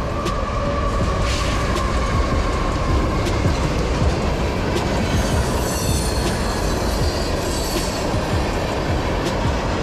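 A train passing, with a steady heavy rumble of wheels on the rails. A high-pitched wheel squeal rises about halfway through, and sharp clicks come now and then as the wheels cross rail joints.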